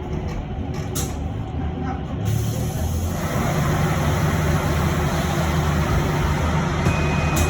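Inside an electric bus: a low steady drone, then about two seconds in a broad hiss sets in, and a second later the noise grows louder and holds steady.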